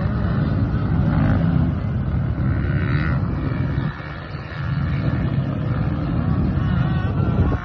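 Small dirt bike engine running under throttle. It eases off briefly about four seconds in, then picks up again.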